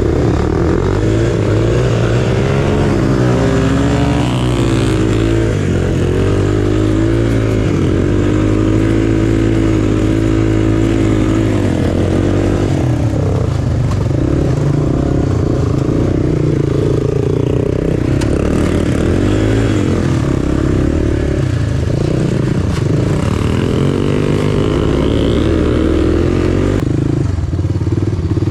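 Small single-cylinder off-road engine running under way on a trail, its pitch rising and falling again and again as the throttle opens and closes.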